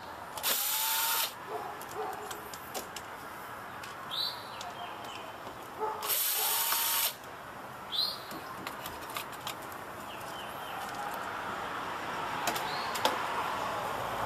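Cordless electric screwdriver running in two short bursts of about a second each, about half a second in and about six seconds in, turning the screws of a computer case fan, with light clicks of handling between.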